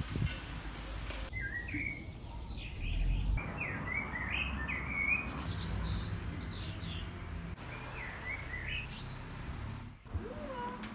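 Birds chirping in short, repeated calls over a low outdoor background rumble, the ambience cutting abruptly every couple of seconds.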